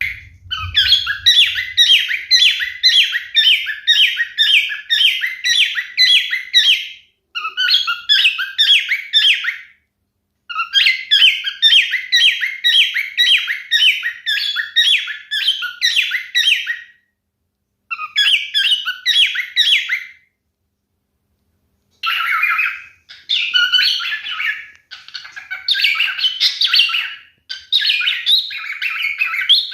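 Male pied cockatiel singing: phrases of quick repeated chirping notes, about two a second, broken by short pauses. The last several seconds turn to a more varied warbling run.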